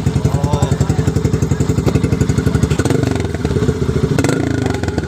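Yamaha FZ-S V2's single-cylinder engine idling just after starting, with a loud, even exhaust pulse of about ten beats a second. It runs through a silencer with the catalytic converter cut out.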